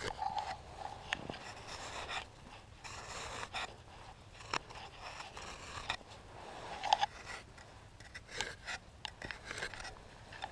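Digging and scraping in snow to free a buried chain, with irregular short scrapes and clicks and a person breathing hard.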